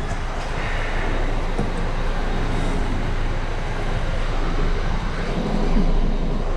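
Steady traffic noise: a low, even rumble of vehicles running.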